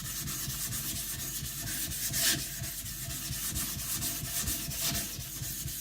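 Kiridashi blade being rubbed back and forth on a wet whetstone, a steady gritty scraping in quick repeated strokes as the blade is ground flat.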